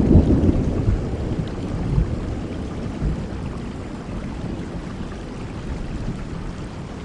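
Thunder rumbling low and fading away over several seconds, over steady heavy rain.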